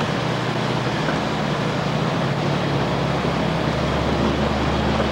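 Double-stack container well cars of a freight train rolling past close by: a steady noise of steel wheels running on the rails.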